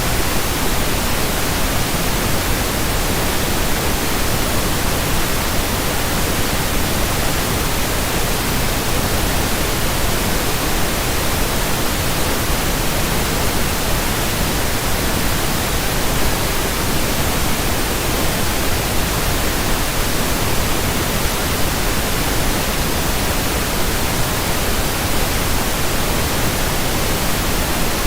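Steady pink noise: an even, unchanging hiss with no breaks or changes.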